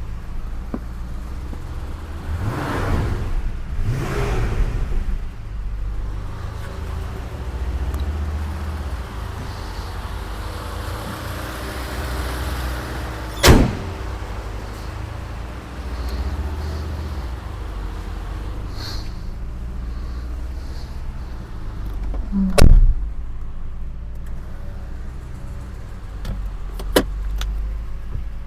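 Mercedes-Benz 500 SE's 5.0-litre V8 running with its mufflers removed, a steady low exhaust rumble that swells twice early on. Three sharp knocks cut through it, one around the middle, the loudest a little later and a smaller one near the end.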